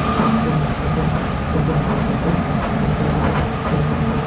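A Nippori-Toneri Liner rubber-tyred automated guideway train running steadily along its concrete guideway, heard from inside the car. There is an even rumble of running noise with faint steady humming tones over it.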